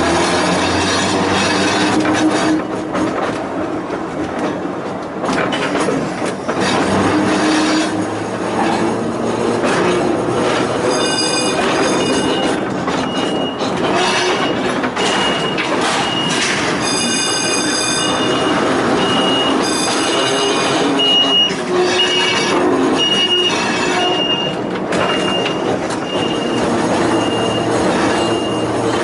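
A Volk's Electric Railway car running along its narrow-gauge track, wheels rumbling and knocking on the rails. From about eleven seconds in, a high-pitched squeal comes and goes over the running noise.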